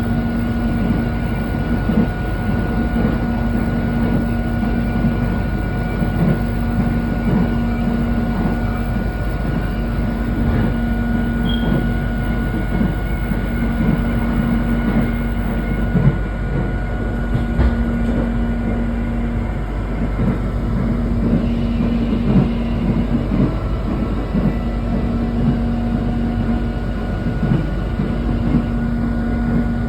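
Electric airport rail link train running, heard from inside the carriage: a steady rumble of wheels on track with scattered knocks over the rails, a low hum that swells and fades every few seconds and a thin high whine.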